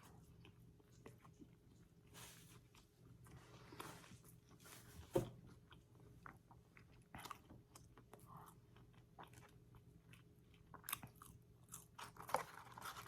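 Close-up chewing and crunching of crispy fried fast food, quiet, with scattered crisp clicks and one sharper crack about five seconds in.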